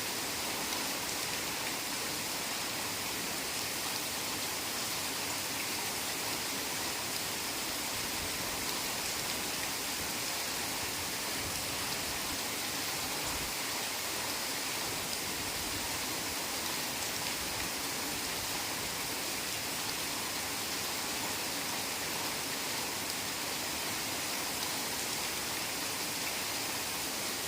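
Heavy rain falling steadily in a forest, an even, unbroken hiss of rain on leaves and ground.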